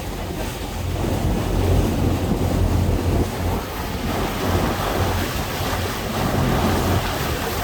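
Tour boat's engine droning steadily, with wind buffeting the microphone and the rush of water around the boat.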